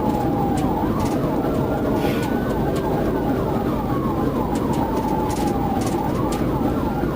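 Police car siren in a slow wail: the pitch falls to its low point about half a second in, rises for about two and a half seconds, falls again over the next three, and starts rising near the end. A faster, repeating yelp-like sweep runs alongside it, over heavy engine and road noise from a car at pursuit speed.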